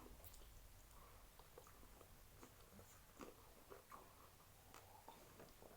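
Near silence with faint, scattered chewing and mouth clicks from someone eating fried chicken.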